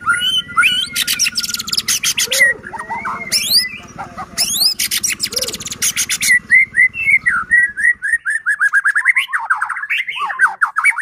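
White-rumped shama (murai batu) singing: whistled, sliding notes broken by two bursts of very rapid rattling notes (the 'kretekan'), then a fast run of chirping notes in the second half.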